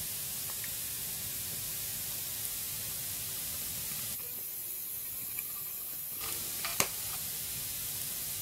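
Wood fire burning in a fireplace: a steady hiss with a few faint crackles and one sharp pop about seven seconds in.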